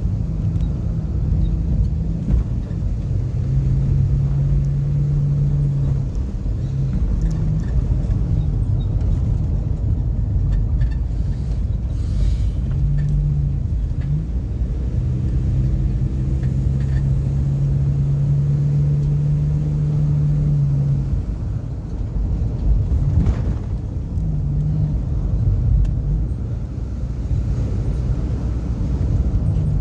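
A car in motion: continuous low road rumble, with a steady engine hum that comes and goes.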